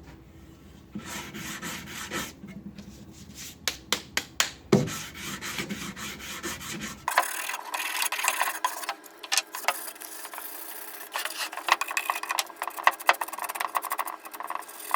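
Wood being worked by hand with an abrasive, giving uneven rubbing and rasping strokes with scattered sharp clicks. The strokes grow denser and brighter about seven seconds in.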